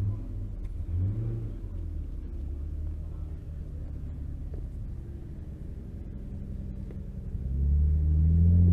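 Car engine running with a deep, low rumble, briefly revved about a second in, then growing much louder near the end as the car pulls closer or is revved.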